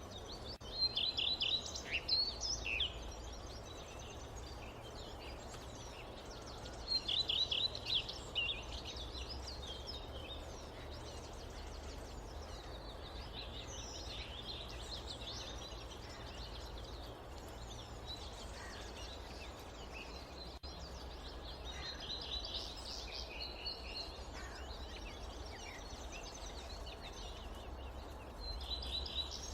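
Forest ambience: birds chirping in scattered bursts, loudest about a second in and again around eight seconds, over a steady low rumble of wind.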